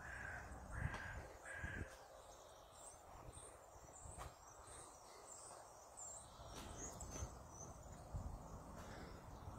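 Faint bird calls: three short calls in quick succession in the first two seconds, then scattered high chirps of small birds, over a low background rumble.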